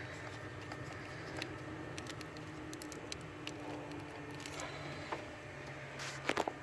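Light clicks and plastic rattles as fuel injector wiring connectors are pulled off the engine's harness, with a few louder clicks near the end, over a low steady hum.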